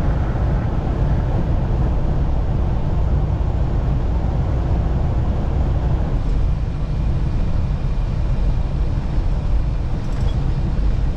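Steady drone of a semi truck driving down the highway, heard from inside the cab: engine and road noise, heaviest in the low end, without change.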